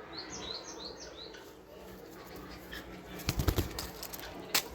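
Bulbul giving a quick series of about six short, high chirps in the first second. Later comes a brief, loud flurry of rustling that sounds like flapping wings, and near the end a single sharp click.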